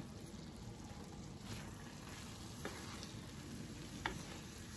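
Minced beef and potatoes sizzling gently in a frying pan, with a few light taps of a wooden spatula against the pan in the second half.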